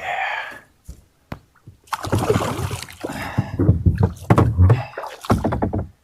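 Knocking, bumping and rustling on a kayak, with sharp knocks among it, from about two seconds in until it cuts off abruptly near the end.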